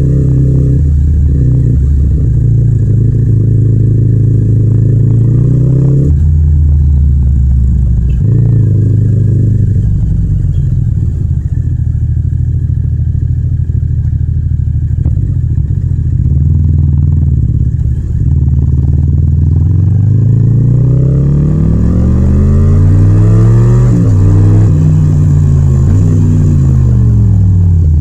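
Yamaha MT-07's parallel-twin engine running under way, with no wind noise. The engine speed holds fairly even at first, then rises and falls again and again over the last several seconds as the throttle is opened and closed.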